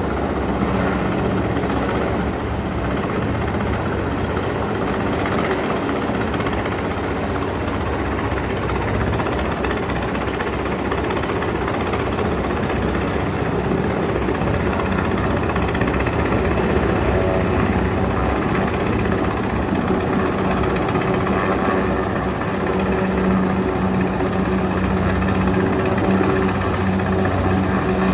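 Helicopter running steadily overhead while lifting heavy loads, a dense, even rotor and engine noise with a steady low hum, growing a little louder in the second half.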